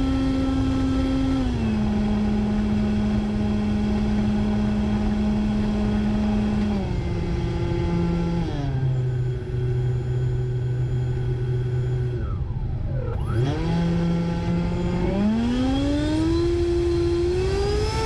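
Onboard sound of the HSD 105mm Super Viper's electric ducted fan: a whine with many overtones that steps down in pitch as the throttle is eased back, swoops briefly right down and back up about thirteen seconds in, then climbs steadily in pitch near the end as power is added. Wind rumbles on the microphone throughout.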